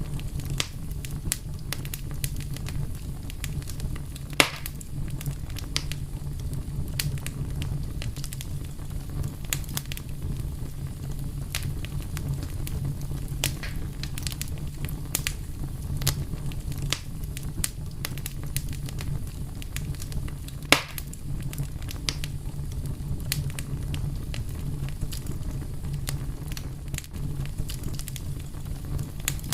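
A fire crackling steadily over a low rumble, with many small snaps and two louder pops, one about four seconds in and another about twenty seconds in.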